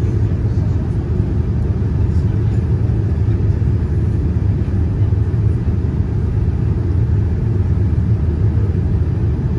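Steady low rumble inside the cabin of a Boeing 787-9 airliner: its GEnx engines and the airflow heard through the fuselage, even in level with no change.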